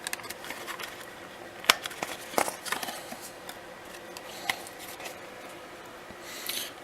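Handling noises of a cardboard template and a plastic 12-volt power outlet being fitted together and moved about: scattered light clicks and taps, the sharpest a little under two seconds in.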